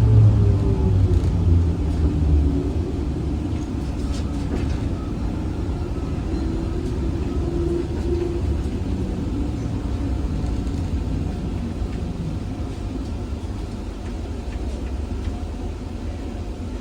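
ZiU-682G trolleybus under way, heard from on board: a low running rumble with the traction motor's whine shifting in pitch. The sound grows quieter over the last few seconds.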